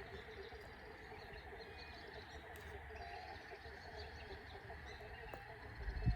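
Many birds chirping and calling, faint, over a low rumble, with a few low thumps near the end.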